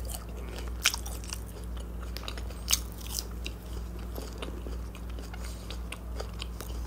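A person chewing French fries close to the microphone: soft mouth sounds with scattered short clicks and crunches, over a steady low hum. The fries are still a little hot but not very crisp.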